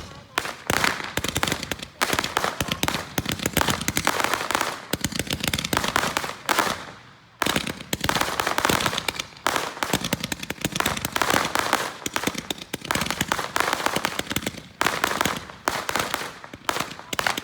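Consumer fireworks going off in a dense barrage of rapid crackling bangs, with a brief lull about seven seconds in.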